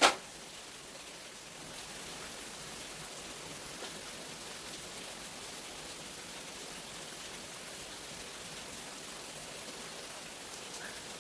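Steady rain falling, an even hiss with no change in strength. A single sharp knock sounds right at the start.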